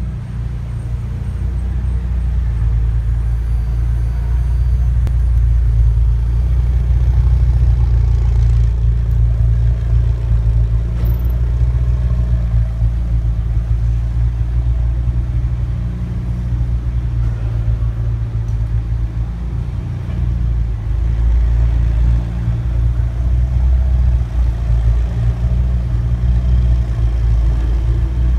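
McLaren 720S's twin-turbo V8 idling steadily, its sound sitting almost all in deep low notes.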